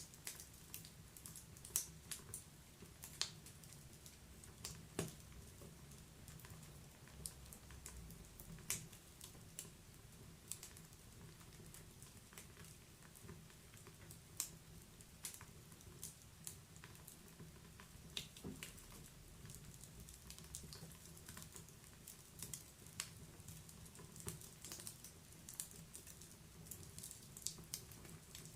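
Wood fire in a fireplace crackling, with sharp irregular pops and snaps over a faint low rumble of burning.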